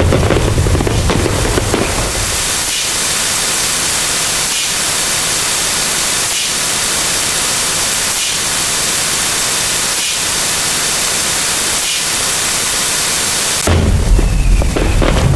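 A loud, steady hiss like static or white noise, with faint regular pulses under it about every two seconds. Dense, booming layered noise plays briefly at the start and cuts back in near the end.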